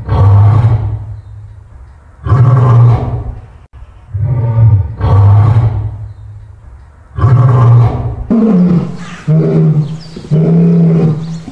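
Lion roaring in a bout: four long, deep roars about two and a half seconds apart, then from about eight seconds in a quicker run of shorter, higher grunting calls about one a second.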